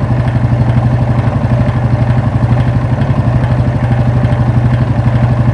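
Yamaha Fazer 250's single-cylinder engine running steadily with an even, fast pulse. This is the strange engine noise that new cam chain, chain guides, tensioner and clutch have not cured.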